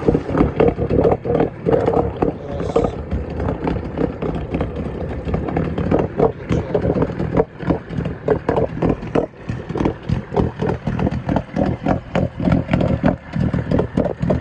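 1970s Yamaha 20A two-stroke outboard engine running in forward gear at low speed, with a choppy, uneven pulsing beat.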